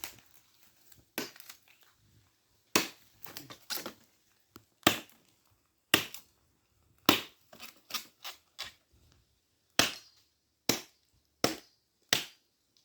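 Old cashew-tree wood being broken up for firewood: a series of sharp cracks and knocks, roughly one a second, as partly rotten limbs and pieces split apart.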